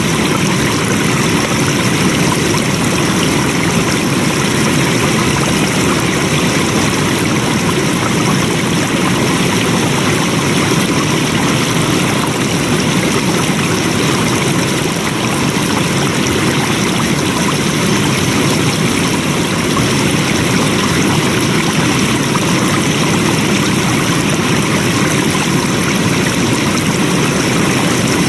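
Flowing water rushing steadily, like a stream, with no change over the whole stretch.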